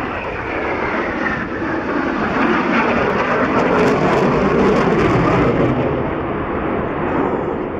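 Eurofighter Typhoon's twin EJ200 turbofan jet engines roaring on a low pass. A whine falls in pitch over the first couple of seconds, and the roar builds to its loudest about four to five seconds in before easing slightly.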